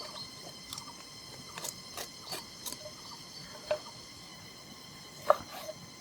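Scattered light clicks and taps, with one sharp knock about five seconds in, over a faint steady high background.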